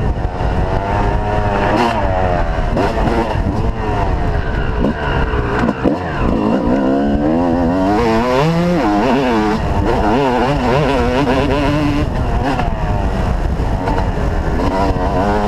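Motocross bike engines revving up and down in pitch through the throttle and gears, with more than one engine heard at once.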